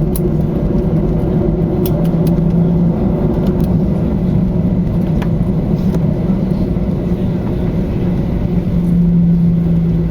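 Steady cabin drone of a jet airliner taxiing after landing, its engines running at idle with a low steady hum and a few faint clicks.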